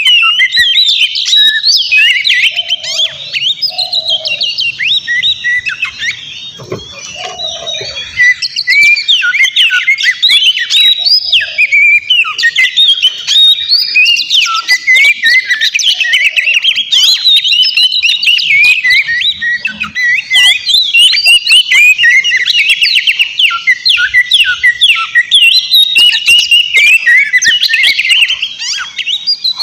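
Oriental magpie-robin (kacer) singing hard: a fast, unbroken stream of sharp chirps and whistled glides, briefly softer about six seconds in before picking up again.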